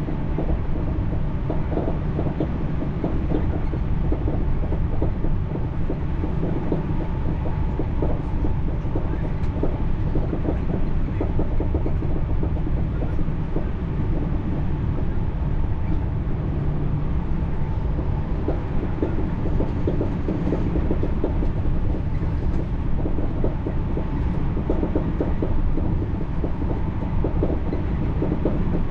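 French TER regional train running along the line, heard from on board: a steady low rumble of wheels on rails.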